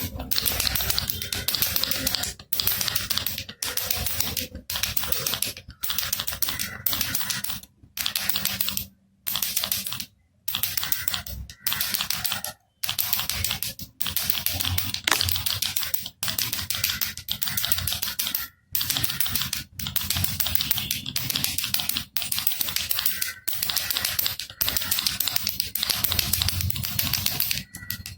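Baby rattle shaken in bursts, its beads clattering in a dense run of clicks. Each burst is broken by a short pause, with a few brief silences about a third and two-thirds of the way through.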